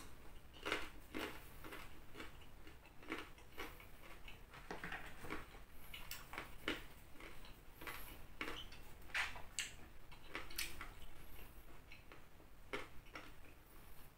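Close-up crunching of raw carrot being bitten and chewed: irregular crisp crunches, one or two a second.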